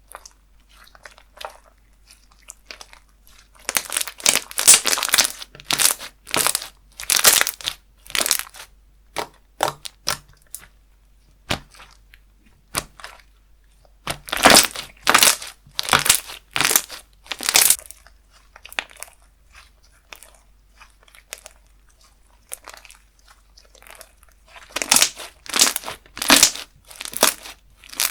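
Slime being squeezed and worked by hand, crackling and popping in quick clicks and snaps. It comes in three spells, about four seconds in, mid-way, and near the end, with only faint scattered clicks between.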